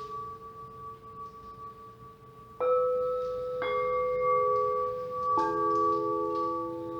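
Quartz crystal singing bowls ringing with long, steady, overlapping tones. Three more bowls are struck about two and a half, three and a half and five and a half seconds in, each adding a new pitch that keeps sounding.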